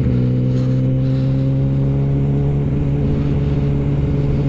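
Kawasaki ZX-10R inline-four sport bike engine running at steady revs while cruising, its pitch rising slightly in the first second and then holding.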